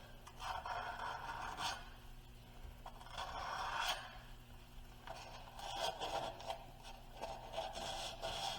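Sandpaper rubbed lightly over the rough edge of a metal exhaust tip to take the edge off: a few separate scraping passes, each about a second long, with short pauses between them.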